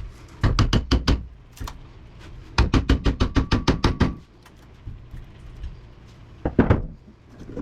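Rapid runs of metallic knocks: quick blows struck on the air conditioner's motor housing, about seven a second, while trying to free a stuck stator. There are three runs, the longest in the middle with a faint ring, and a short pair near the end.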